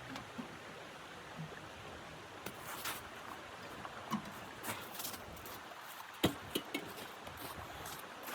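Faint steady hiss with scattered sharp clicks and crackles at irregular intervals, a few of them louder around the middle and past two-thirds through.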